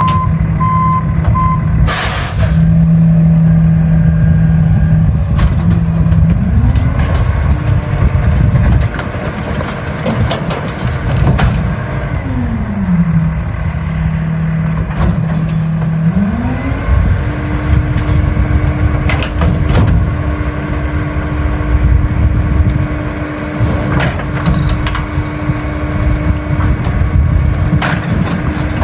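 International rear-loader garbage truck with a New Way body: its diesel engine runs steadily and its speed steps up twice to a higher, steady pitch, falling back in between, with scattered knocks and bangs. A sharp air hiss comes about two seconds in, and a few short beeps sound at the start.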